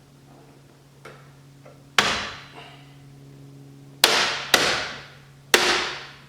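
Four sharp hammer strikes, the first about two seconds in and three more close together near the end, each ringing briefly: rivet-like moulding clips being tapped home to hold the rocker seal moulding. A steady low hum runs underneath.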